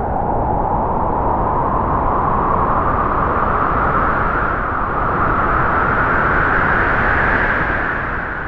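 Strong wind howling through trees: a steady rushing gust whose howling tone rises slowly over the first several seconds and then holds.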